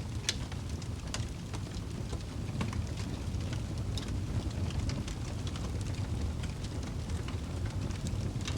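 Wood fire burning in a fireplace: a steady low rumble of the flames with frequent irregular sharp crackles and pops of the burning wood, one louder pop just after the start.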